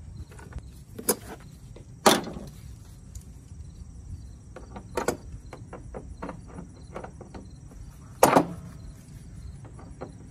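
Hand tools and car parts clanking and clicking during work on a car's engine bay: scattered sharp knocks, the loudest about two seconds in and again after eight seconds, with a run of lighter clicks in between.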